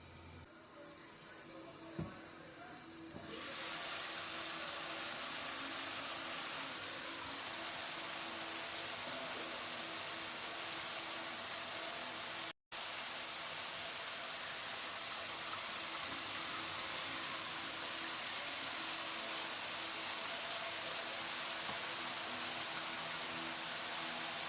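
Food frying in a pan: a quieter start with one click about two seconds in, then a steady sizzle from about three seconds on.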